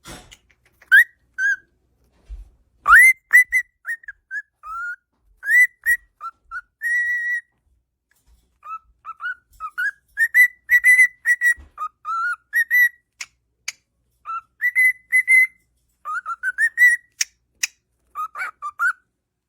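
Cockatiel whistling a learned tune in short phrases of rising, falling and held notes, with a few sharp clicks near the end.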